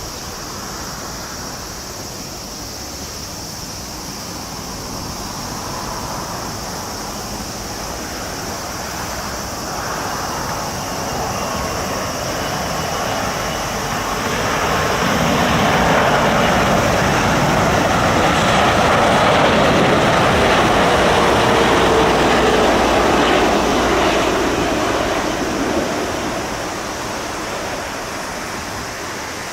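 Jet airliner arriving to land, its engine noise swelling as it approaches and passing loudest for several seconds in the middle before fading. A whine falls in pitch as it goes by.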